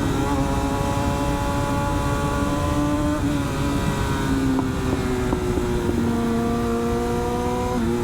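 Motorcycle engine running at riding speed, its pitch stepping down a couple of times midway and climbing again near the end as the bike changes speed, over a steady low wind rumble.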